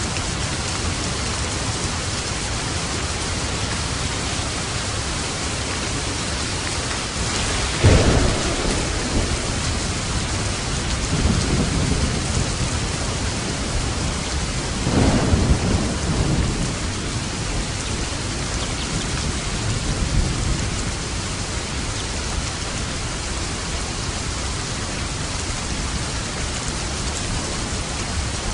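Steady rain with light thunder: a sharp thunderclap about 8 seconds in, then rolling rumbles around 11, 15 and 20 seconds.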